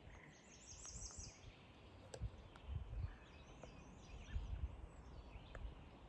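A small songbird singing faintly: a quick run of repeated high notes about a second long near the start, and another short series of high notes in the middle. Soft low thuds of footsteps on a dirt trail sound underneath.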